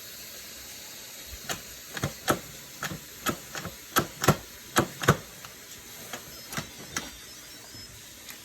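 Instant Pot being opened: faint high steam hiss fading away, then a run of about fifteen sharp, irregular clicks and clacks of the lid and pot being handled, busiest around the middle.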